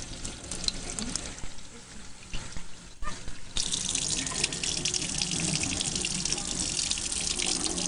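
Water running from a tap and splashing while puppies are rinsed. The flow drops off for a couple of seconds, then comes back on full, suddenly, about three and a half seconds in.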